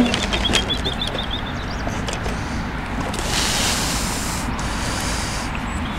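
Steady low outdoor rumble with a small bird's quick trill of high repeated notes in the first second, and a rise of hiss about halfway.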